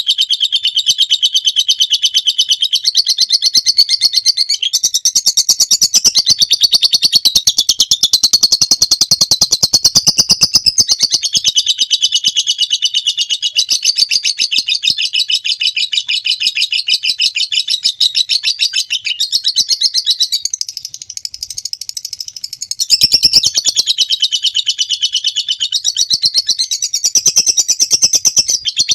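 Lovebird giving its long 'ngekek' song: a sustained, very rapid high chattering trill, pausing briefly and going softer a little past the middle before resuming.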